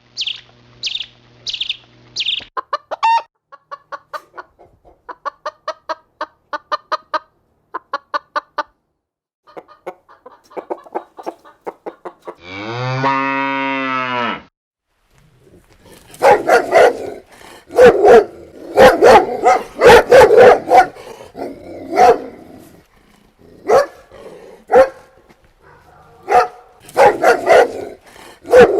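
A run of animal sounds: short high chirps, then chickens clucking in quick rhythmic pulses, one long low call about halfway through, and in the second half dogs barking loudly and repeatedly.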